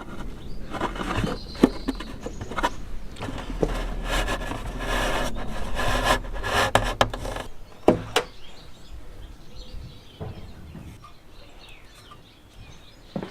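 Hands-on workshop noise from parts and hand tools: a run of sharp clicks and knocks over scraping and rustling for about the first eight seconds, then quieter with only a few taps.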